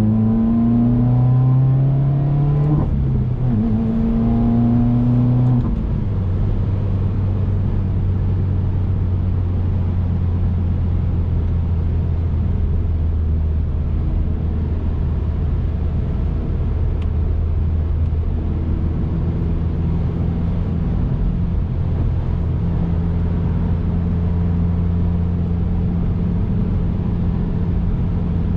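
2019 Subaru WRX's turbocharged flat-four engine under way, rising in pitch twice with a drop in between over the first six seconds, then settling into a steady low drone at cruising speed.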